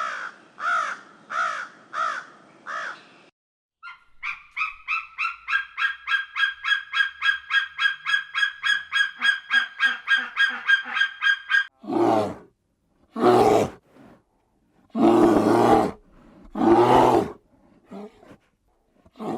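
A series of animal calls. First come about six short calls repeated evenly. Then, from about four seconds in, a fast run of pitched notes at about five a second lasts some seven seconds. Near the end come four loud, harsh calls about a second long each.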